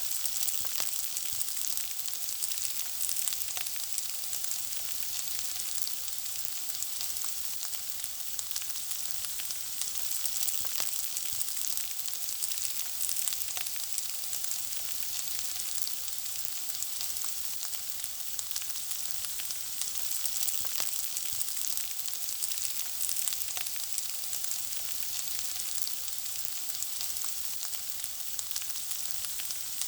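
Food frying in hot oil in a pan: a steady, high sizzling hiss with many small crackles and pops.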